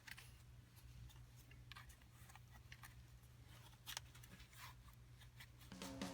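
Near silence with a faint low hum and a few faint, scattered clicks, one a little plainer about four seconds in.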